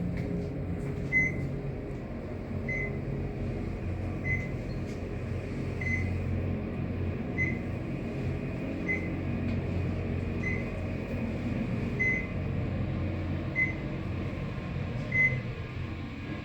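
A 1986 Dover traction elevator running, a steady low hum of the car in motion, with a short high beep sounding about every second and a half. The hum drops away near the end as the car slows.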